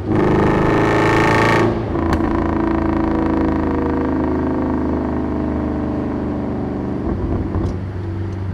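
Straight-piped Boss 260 5.4-litre V8 of a 2005 Ford BA Falcon XR8 ute, miked at the exhaust: a loud burst of hard acceleration for about the first second and a half that cuts off abruptly, then the engine settling into a steady drone.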